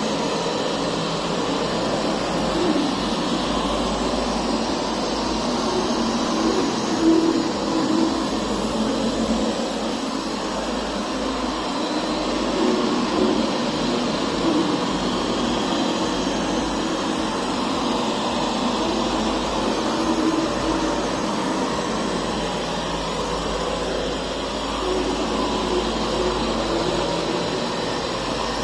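Puppyoo R6 robot vacuum running steadily, its suction fan and brushes giving a continuous whirring noise.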